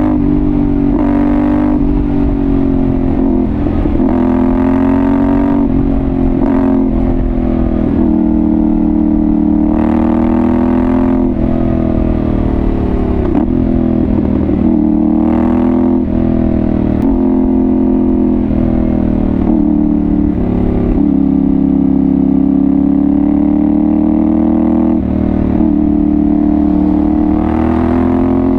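Yamaha Ténéré 700's CP2 parallel-twin engine through an aftermarket Dominator GP1 exhaust, under way on the road. The engine note climbs and drops over and over as the throttle is opened and closed, with short breaks every few seconds.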